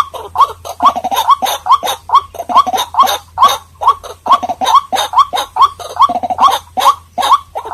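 White-breasted waterhen calling: a fast, continuous run of short croaking notes, several a second, each rising in pitch.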